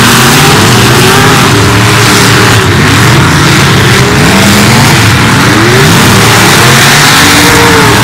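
Several figure-8 derby cars' engines running hard and revving together, their pitches rising and falling as the cars accelerate and slow around the track. The sound is very loud.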